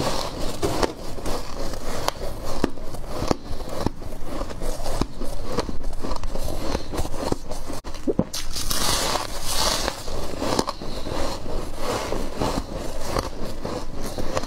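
Freezer frost being bitten and chewed up close: continuous crunching and crackling, made of many sharp crackles, with a brighter, hissier crunch a little past the middle.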